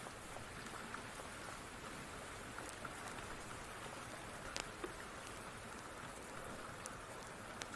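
Steady rain, an even hiss, with a few sharp little ticks scattered through it, most in the second half.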